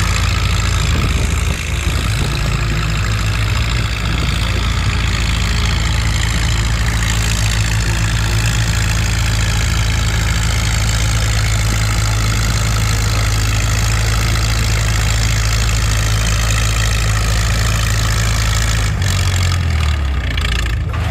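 Minneapolis-Moline 5 Star tractor engine working steadily under heavy load, pulling a weight-transfer sled down the track. The engine note holds even, then changes and drops about nineteen seconds in as the pull ends.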